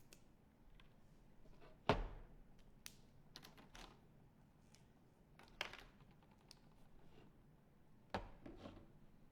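Scattered light knocks and clicks of art supplies handled on a tabletop, such as markers and painted rocks being picked up and set down, about seven in all. The loudest is a knock about two seconds in.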